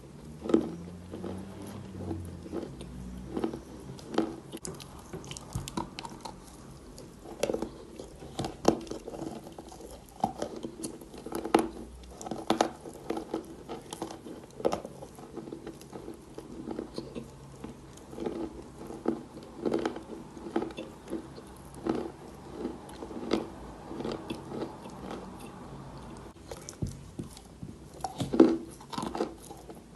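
Chalk being bitten and chewed close to the microphone: sharp crunches mixed with runs of steady, rhythmic chewing, the chewing getting louder and quicker near the end.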